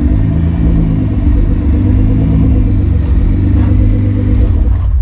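A car engine running close by with a deep, loud exhaust rumble, its pitch wavering slightly; it stops abruptly near the end.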